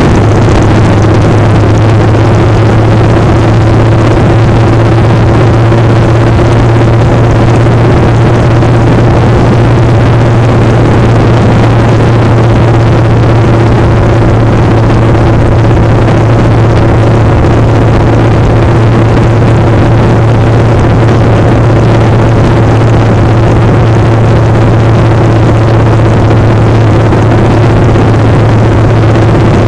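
Motorcycle engine running at a steady, unchanging speed, a loud constant drone under a heavy rushing noise of wind on the microphone.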